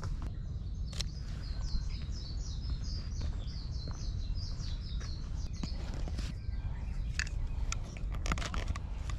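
A small bird singing a fast series of high, repeated chirps that fades out about four seconds in, over a steady low rumble. In the second half, a run of sharp clicks and taps.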